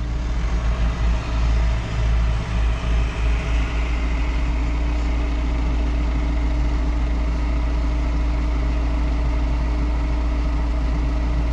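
Farm tractor engine running, its rumble wavering for the first few seconds and then holding steady.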